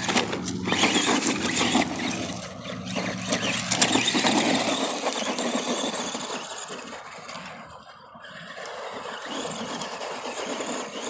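ARRMA Granite Voltage RC monster truck's brushed 540 electric motor running as the truck drives over rough off-road ground, with a steady hum and scattered knocks from the tyres and chassis; the hum stops about five seconds in.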